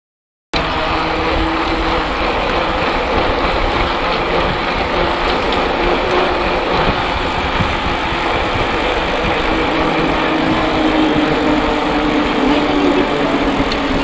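Steady wind rush and rolling noise on an action camera's microphone while a mountain bike is ridden along the trail. It starts abruptly about half a second in, with a faint steady hum underneath.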